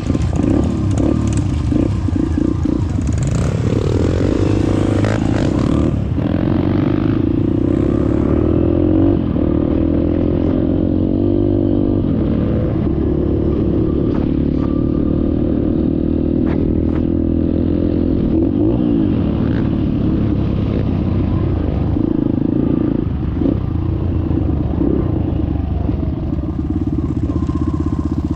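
Dirt bike engine running loudly and continuously, its revs rising and falling as it is ridden, with occasional clattering knocks.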